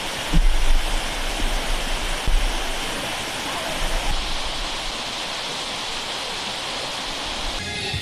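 Steady rushing of a single-drop, 40-metre waterfall, with a few low rumbles in the first few seconds.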